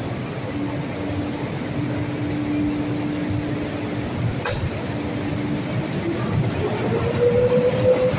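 PKP Intercity EP09 electric locomotive and its passenger coaches rolling past at low speed, with a steady rumble and hum. A whine rises in pitch over the last two seconds. There is a single sharp clink about halfway through.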